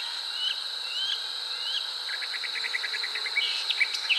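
Outdoor insect drone, a steady high-pitched whine, with a string of short rising chirps repeating about twice a second; about two seconds in, the chirps give way to a fast run of clicks.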